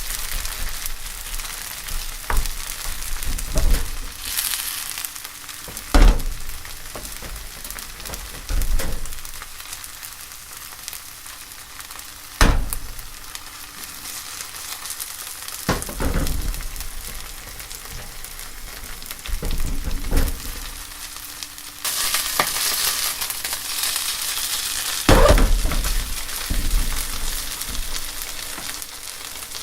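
Kongbiji (soy pulp) pancake batter frying in oil in a pan, with a steady sizzle that grows louder for a few seconds about two-thirds of the way through. A few sharp knocks sound now and then.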